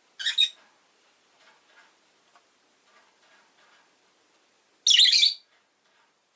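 Rosy-faced lovebirds calling: a loud, short double call just after the start and another loud call about five seconds in, with soft chirps in between.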